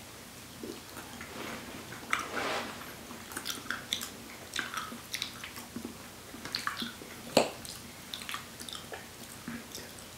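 People chewing soft, creamy durian flesh, with wet mouth smacks and scattered light clicks of forks on plates. The loudest sound is a single sharp click about seven seconds in.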